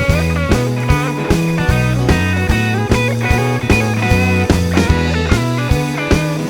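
Instrumental blues band break without singing: electric guitar playing bent, sliding lead notes over a steady drum and bass groove.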